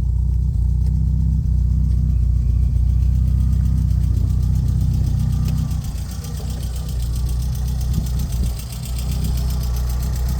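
Ford Escort XR3i's four-cylinder engine idling steadily, a little quieter about halfway through.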